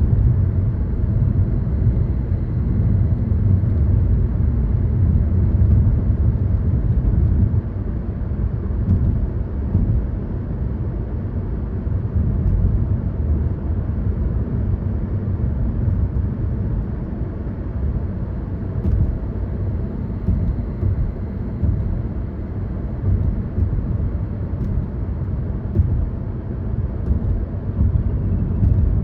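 A car driving along a road: a steady low rumble of engine and tyre noise, a little louder for the first several seconds and then easing slightly.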